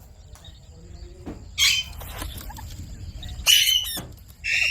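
Ringneck parrot giving three short, harsh squawks, the last two close together.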